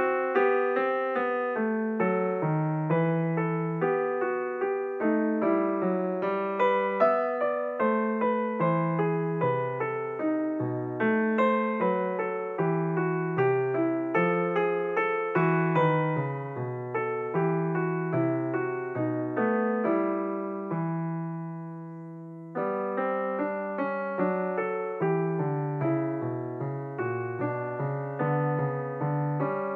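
Solo piano background music: a steady flow of struck notes and chords. About two-thirds of the way through, one chord is held and fades away before the playing picks up again.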